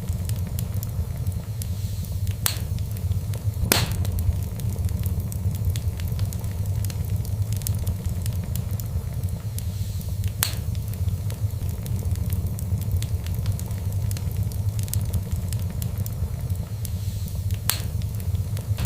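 Fireplace fire crackling steadily over a low rumble, with small crackles throughout and a few louder, sharp pops.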